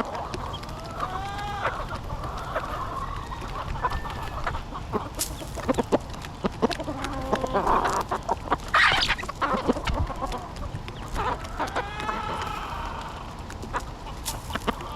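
A flock of chickens clucking and calling as they jostle over food, with scattered sharp clicks. Louder calls come about a second in and again near the end.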